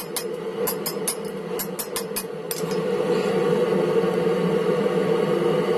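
Hammer blows on hot steel over an anvil, a quick run of about three or four strikes a second that stops about two and a half seconds in, with a steady hum underneath throughout.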